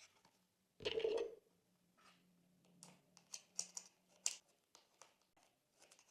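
Thick slime being squeezed and folded by hand: one deep squelch about a second in, then a run of small sticky crackles and air-bubble pops.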